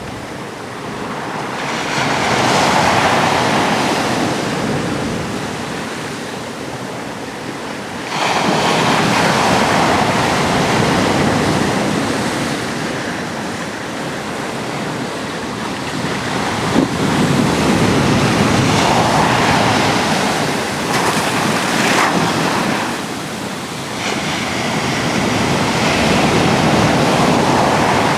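Atlantic surf breaking on a rocky shore, the rushing noise swelling and easing as several waves come in, with some wind buffeting the microphone.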